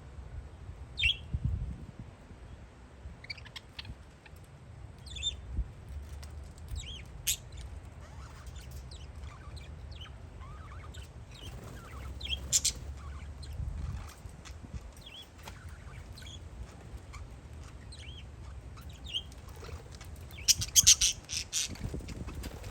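Parakeets chirping in short, scattered calls, with a dense run of rapid calls about twenty seconds in, the loudest part. Wind rumbles low on the microphone underneath.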